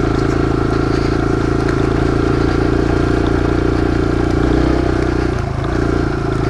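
Kawasaki KLX140 single-cylinder four-stroke dirt bike engine running at steady revs while ridden, dipping briefly about five and a half seconds in before picking back up.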